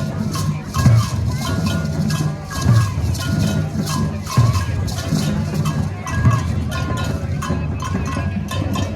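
Percussion music: shakers rattling in a fast, steady rhythm over a low drum beat that lands about every two seconds, with a few short pitched tones above.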